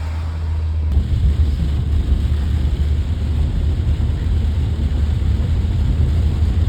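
Canadian National freight train of tank cars rolling past with a steady low rumble that gets louder and rougher about a second in.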